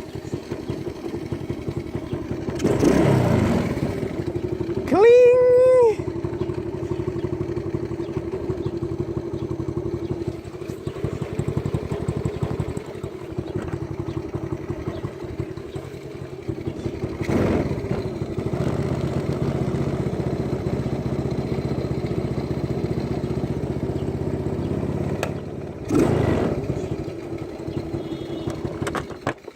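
Small 110cc pocket bike engine running at a steady idle, revved briefly three times, then cutting off at the very end.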